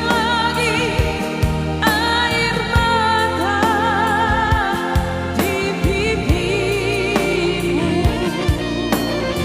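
A song with a solo voice singing a melody with vibrato over band backing with a steady beat.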